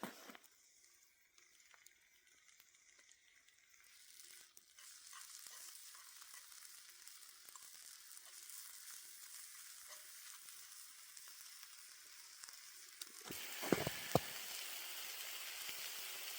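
Venison tenderloin sizzling in a pan on a campfire. The sizzle builds from a few seconds in and grows louder near the end, with a couple of knocks from the pan.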